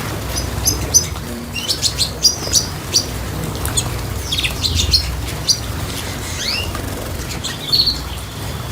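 Small cage birds chirping in short, high, quick calls, with fluttering of wings and a few sharp clicks among them.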